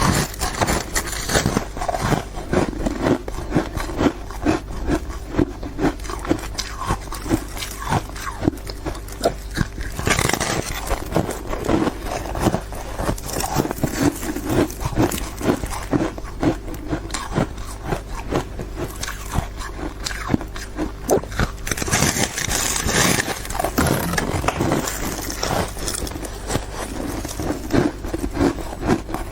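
Close-up crunching of hard frozen ice being bitten and chewed: a dense, continuous run of sharp cracks and crunches.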